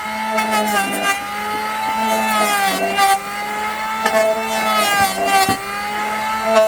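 Small electric power tool working wood, its motor whine sagging in pitch and recovering about once a second as the bit or pad bites and eases off, with a few sharp knocks.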